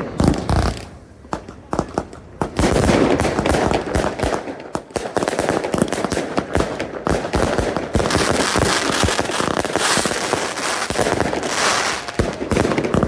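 Fireworks going off: a few separate bangs, then from about two and a half seconds in a dense, unbroken run of bangs and crackling that stops at the very end.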